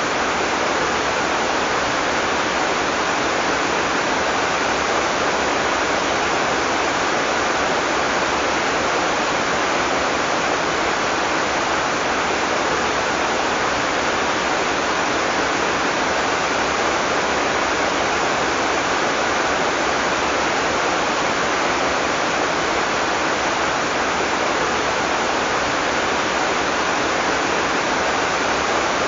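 Heavy tropical rain falling steadily, a dense even hiss with no thunder.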